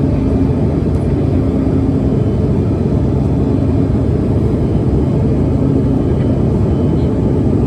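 Steady low rumble of an American Eagle regional airliner's engines and airflow, heard from inside the passenger cabin, holding level without rising or falling.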